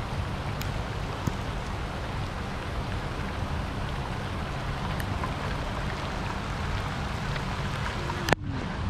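Steady rain falling, with a few sharp drop ticks over a low rumble. A sharp click comes near the end, after which the hiss turns duller.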